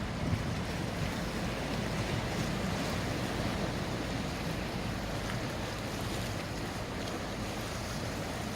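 Steady wind buffeting the microphone over the wash of water, with a low steady hum underneath.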